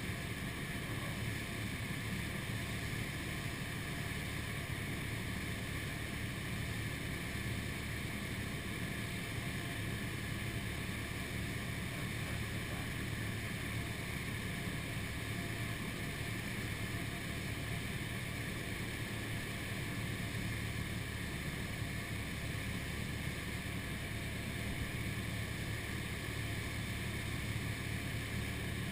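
Steady drone of a Cessna 172's engine and propeller with rushing airflow, heard inside the cabin, even and unchanging throughout.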